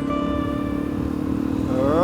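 Suzuki DR-Z400E single-cylinder four-stroke engine running steadily under way. A thin steady tone is heard in the first second, and a brief warbling tone comes near the end.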